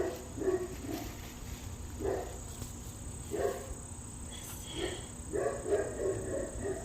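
A dog barking several times at irregular gaps, with a quick run of barks near the end, over a steady high chirring of crickets.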